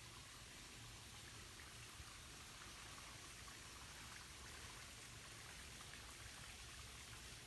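Near silence: a faint, steady hiss with a few tiny ticks.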